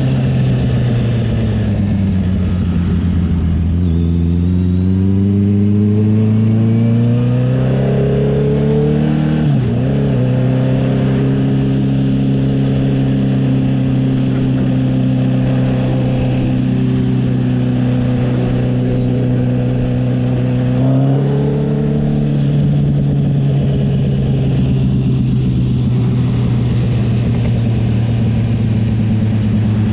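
Honda CB650R inline-four motorcycle engine through an aftermarket CS Racing exhaust, ridden on the road: the engine note falls off, then climbs steadily as it pulls up through the revs, drops sharply for a moment near the ten-second mark as a gear changes, and settles into a steady cruising note that steps up briefly a little past twenty seconds.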